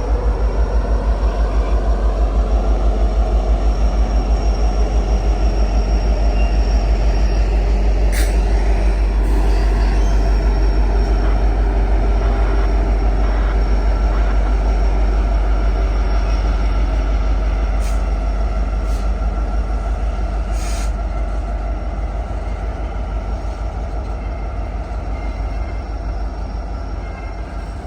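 A freight train's cars rolling past on the rails, a loud steady rumble with a few sharp clanks, easing off over the last several seconds.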